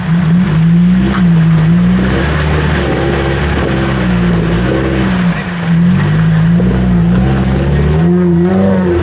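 4x4 off-road vehicle's engine revving under load as it crawls up a rock step, the revs rising and falling again and again.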